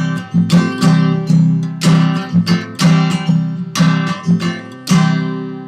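Acoustic guitar strummed steadily, about two strokes a second, playing the closing chords of the song; a last chord about five seconds in is left to ring and fade.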